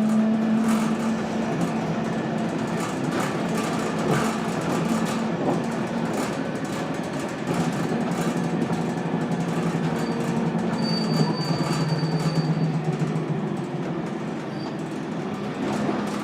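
Scania K280UB city bus under way: its 9-litre five-cylinder turbo diesel drones steadily, with frequent rattles and knocks, and the drone drops in pitch partway through. A thin high whine comes in for about two seconds near the middle. The uploader says the bus sounds very unhealthy.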